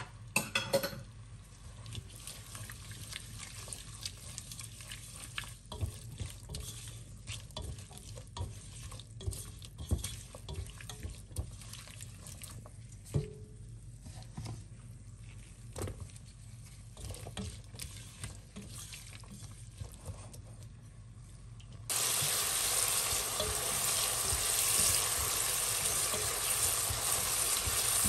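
Plastic slotted spoon stirring and scraping chopped onion, tomato and peppers frying in oil in a nonstick pot, with scattered light taps and scrapes over a faint sizzle. About 22 seconds in, a much louder, steady sizzling starts abruptly.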